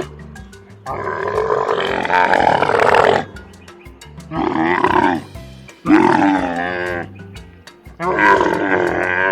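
Camel calling: four loud, drawn-out groaning bellows, each lasting one to two seconds with short pauses between them, over a soft music bed.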